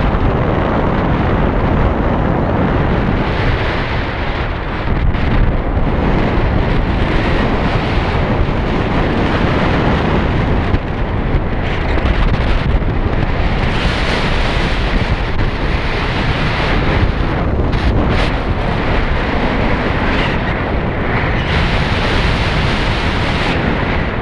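Loud, steady wind rush buffeting the microphone of a moving motorcycle, with gusty swells and dips in level.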